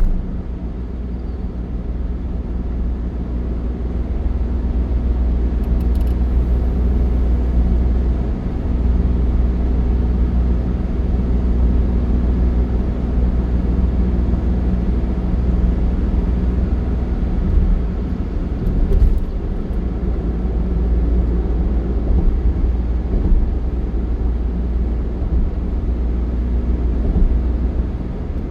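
Steady low rumble of a motor vehicle on the move: engine hum and road noise, with the engine's hum fading a little after the middle.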